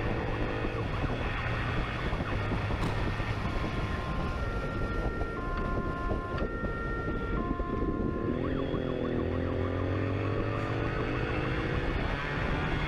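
Police siren sounding over a running motorcycle engine: a fast warbling wail that switches about four seconds in to a steady two-tone hi-lo pattern, then back to the warble as the engine pitch rises.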